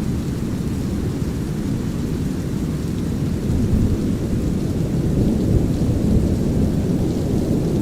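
Deep, steady brown noise mixed with a light rain hiss and a low rumble of thunder, swelling slightly in the middle.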